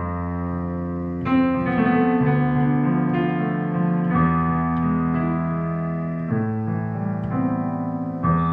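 Instrumental music: a keyboard plays slow, held chords that change every two seconds or so, with no singing.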